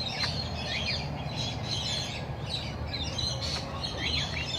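A flock of small aviary birds chirping and chattering together: many short, high calls overlapping throughout, over a steady low background rumble.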